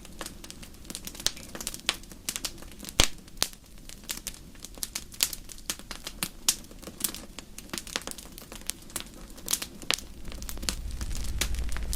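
Campfire crackling, with many irregular sharp pops and snaps. A low rumble of the fire swells near the end.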